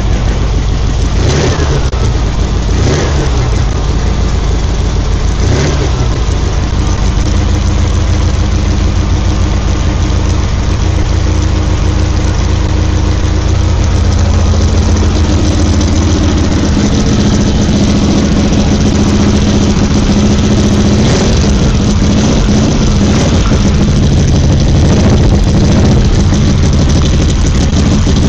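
Volkswagen engine in a trike build running steadily, with a few short sharp sounds in the first six seconds and its note growing slightly louder about halfway through. It has started on a newly fitted starter switch and is running like a dream.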